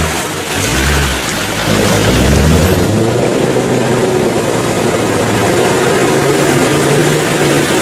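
Off-road 4x4's engine working hard, revs rising and falling over the first couple of seconds and then held fairly steady, under a loud rushing noise.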